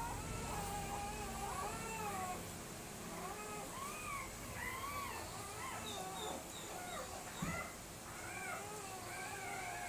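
A litter of German Shepherd puppies whining and whimpering: many short, overlapping high cries that rise and fall in pitch. A brief thump about seven seconds in.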